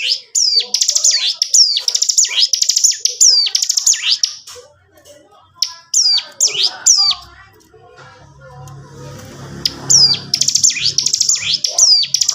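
Ciblek gunung (a prinia) singing its rapid 'ngebren' drilling song: quick strings of sharp, high, downward-sweeping notes in bursts. It breaks off for about four seconds in the middle, when a low hum is heard, then starts again.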